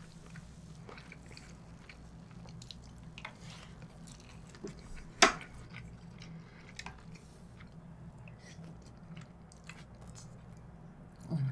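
Close-miked chewing and soft mouth sounds of a person eating, with scattered small clicks and one sharp click about five seconds in. A steady low hum runs underneath.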